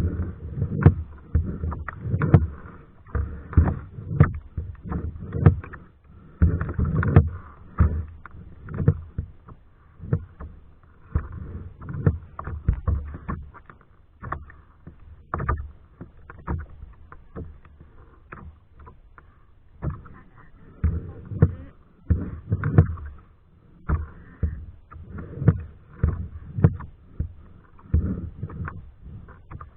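Kayak paddle strokes: the blades dipping and splashing in the water in a steady rhythm of about one to two strokes a second, easing off for a few seconds midway.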